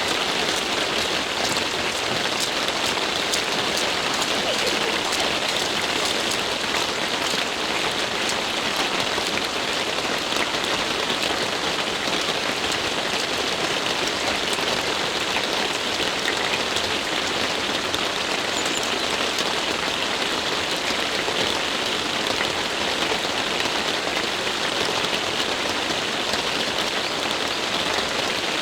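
Steady rain: an even hiss with fine patter that holds at one level throughout.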